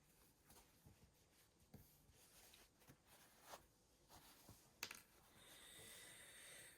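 Faint hand-sewing sounds: soft rustling of fabric and thread with small ticks, a sharper tick about five seconds in and a longer rustle near the end.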